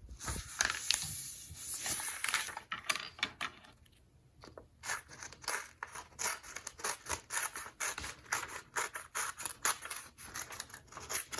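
Scissors cutting through a sheet of coloured paper, following a fold-line to trim it square. The first few seconds hold a rustling of paper, and from about five seconds in there is a long run of quick, short snips.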